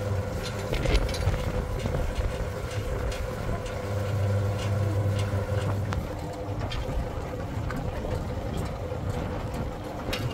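An engine running steadily, with scattered clicks and knocks.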